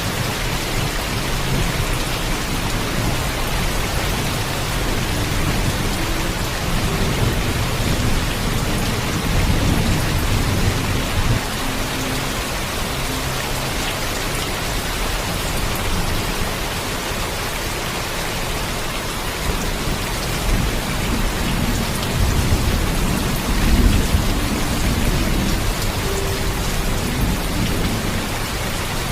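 Steady heavy rain with low thunder rumbling, swelling about a third of the way in and again in the last third.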